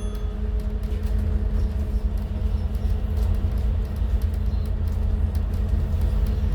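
Scania N280UD CNG double-decker bus in motion, heard from inside on the top deck: a steady engine and road drone holding one pitch, with light clicks and rattles from the body.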